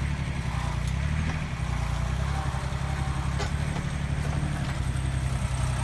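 Yanmar YM169D compact tractor's diesel engine running steadily, with a slight change in engine pitch about a second in.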